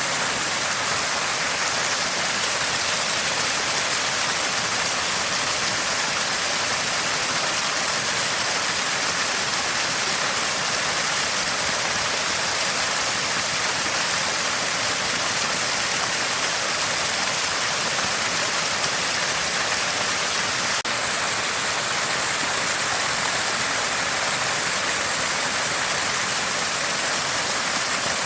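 Water from a small spring gushing and gurgling constantly, a steady, unchanging splashing hiss.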